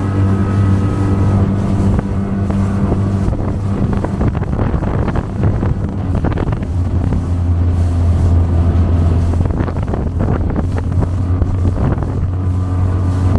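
Motorboat engine running hard at speed with a steady hum, over the rush of water against the hull and wind on the microphone, with irregular splashes and slaps from the hull through the middle.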